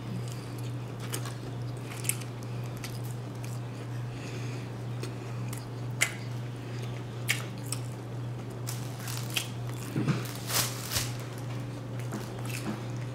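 Close-miked mouth sounds of a man biting and chewing a fried chicken sandwich: irregular wet smacks and clicks of chewing and lip-smacking. A steady low hum runs underneath.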